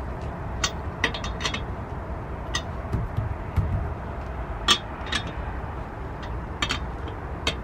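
Irregular sharp metallic clicks and clinks, about a dozen spread unevenly, from a lug wrench and car jack being worked while a spare tire is tightened on, over a steady low rumble.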